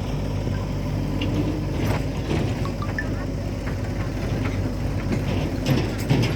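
JCB 3DX backhoe loader's diesel engine running steadily, with occasional sharp clanks and a few louder knocks near the end.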